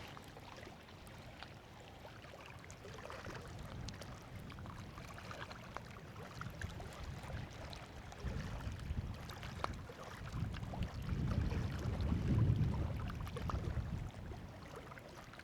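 Wind buffeting the microphone, a low rumble that swells in gusts about halfway through and more strongly a few seconds later. A sharp click at the very start and faint scattered ticks sit on top.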